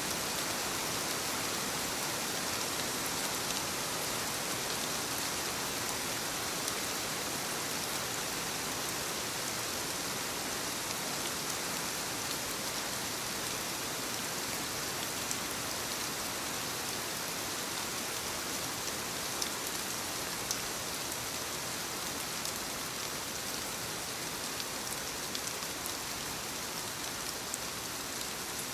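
Steady soft rain falling on leaves: an even hiss with scattered louder drop ticks.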